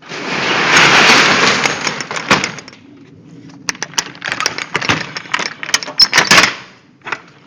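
Rear cargo door of a box truck being pulled shut: a loud rolling rattle for about two and a half seconds, then a run of sharp clanks and knocks.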